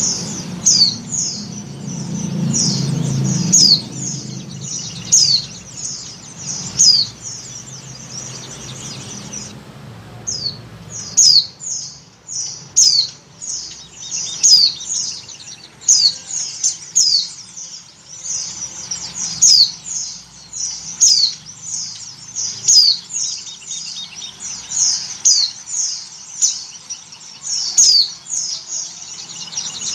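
Pleci (white-eye) giving short, high, downward-slurred chirps over and over, about one or two a second, with a brief pause about ten seconds in. The uploader presents it as a female in breeding condition calling for a male, used as a lure call.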